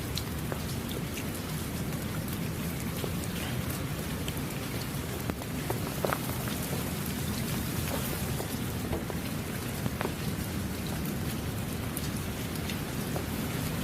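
Heavy rain falling steadily, a dense hiss with many individual drops ticking on surfaces and a low rumble underneath.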